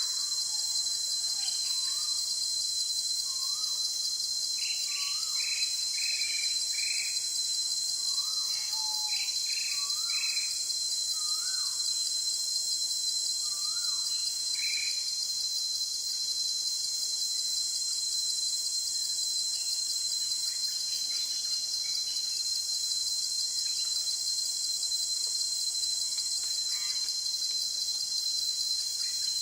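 Forest ambience: a steady, high-pitched chorus of insects, with birds calling in short repeated notes through the first half and only now and then later.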